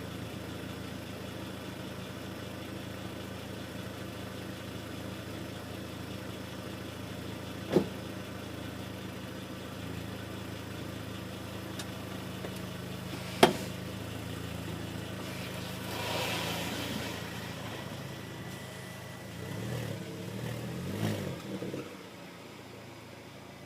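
VW Golf Mk4 2.0 8-valve four-cylinder idling steadily through a resonator-deleted exhaust with the stock muffler, with two sharp clicks partway through. The engine note turns uneven later and then cuts out near the end.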